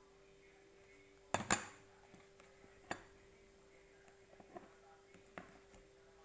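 A spoon clinking against a dish of agar-agar a few times: two quick clinks about a second and a half in, then single lighter ones spread through the rest, over a faint steady hum.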